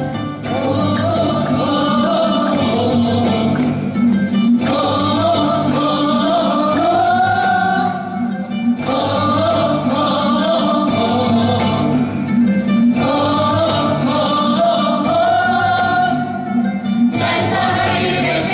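Folk song sung over a steady instrumental accompaniment. The melody comes in four phrases of about four seconds each, with short breaks between them.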